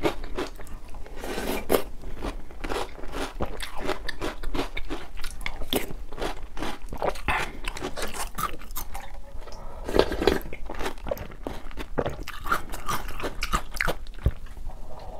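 Close-miked crunching and chewing of Oreo O's chocolate cereal in milk: a rapid, continuous run of crunches, briefly louder a couple of times.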